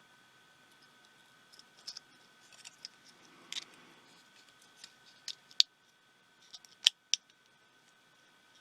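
Small clicks, taps and light scrapes of hand tools on the tiny metal and plastic parts of a pico projector being taken apart, with three sharp clicks in the second half.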